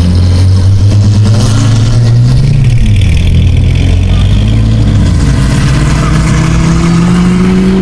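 Car engine running, with a loud low drone for the first few seconds, then a note that climbs slowly in pitch through the second half as the engine gathers revs.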